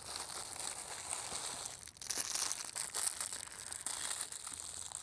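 Takeout food packaging crinkling and rustling as it is handled and opened, with small crackles throughout.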